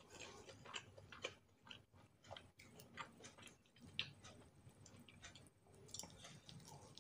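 Faint close-up chewing of a mouthful of rice and chicken rendang, with many small wet clicks from the mouth scattered several times a second.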